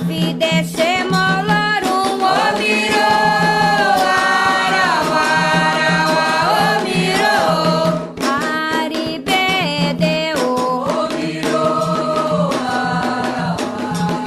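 Voices singing a Candomblé chant to the orixás in Yoruba, with drums and percussion beating a steady rhythm underneath.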